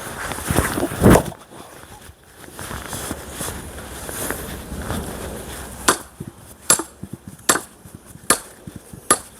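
An axe chopping into a thick, long round of not-fully-dried pine: one heavy strike about a second in, then five sharp knocks under a second apart. The wood does not split.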